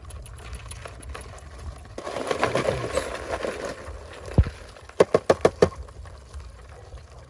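Scraping and rustling, then a dull thump, then a quick run of five sharp knocks.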